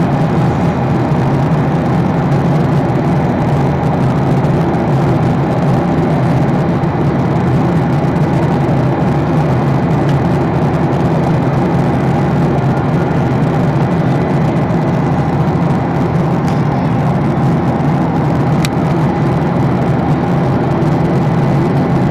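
Steady drone of an airliner in flight, engine and airflow noise heard from inside the passenger cabin.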